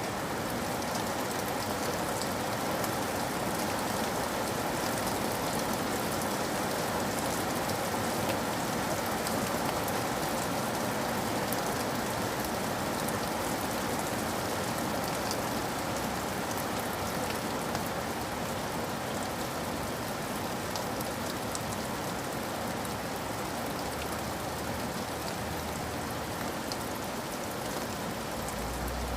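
Steady rain falling with a constant hiss and scattered fine drop taps.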